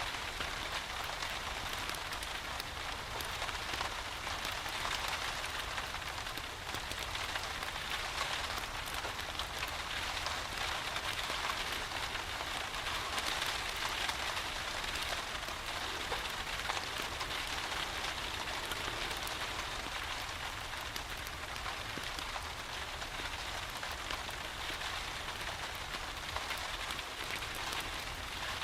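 Steady rain falling: an even hiss sprinkled with many small drop ticks, over a low steady rumble.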